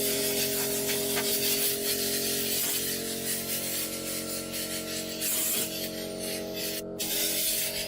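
Air sprayer hissing as it sprays a mix of diesel and oil onto the tractor's metal as a rust protection coat, over a steady low hum.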